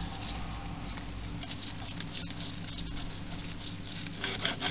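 Scratchy rubbing with a fast, fine patter of light metal clicks as an oiled, freed-up slide on a 1946 Boxford lathe is worked back and forth by hand, with a steady low hum beneath.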